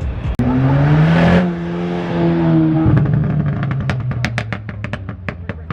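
A car engine revs up hard about half a second in and holds at high revs, then drops back to a lower steady note midway through. A rapid run of sharp pops, about five a second, follows over the engine note toward the end.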